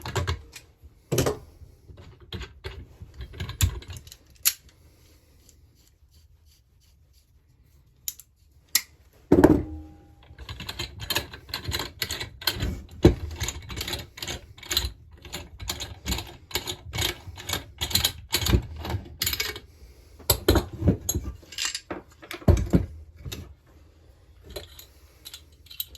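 Sharp metallic clicks and clinks of hand tools on a chainsaw crankcase as the case halves are brought back together. The clicks are scattered at first, stop for a few seconds, then come thick and fast for most of the second half.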